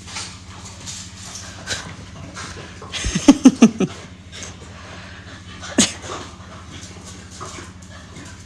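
A dog gives a quick run of about five short barks about three seconds in, then one more bark a couple of seconds later.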